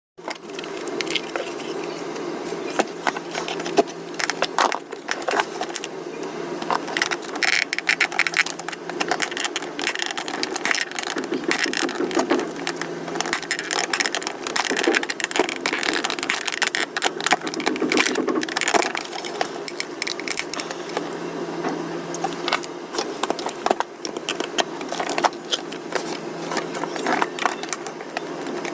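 Irregular clicking and rattling of small hard parts being handled, over a steady low hum.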